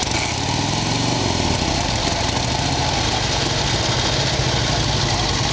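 Vintage Harley-Davidson VL flathead V-twin, just kick-started, revs up during the first second and then settles into a steady idle.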